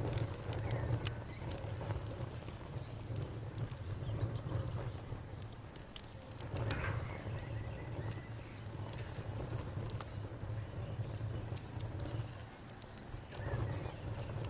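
Wood fire crackling with scattered sharp pops over a low rumble, while crickets chirp steadily in a high, even pulsing trill.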